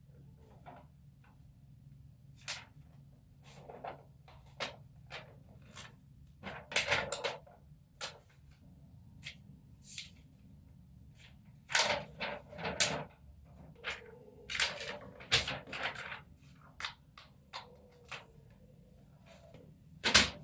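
Irregular knocks, clicks and rustles of things being handled and set down in a small room, over a faint low hum. The loudest clusters come about 7 seconds in, around 12 and 15 seconds, and near the end.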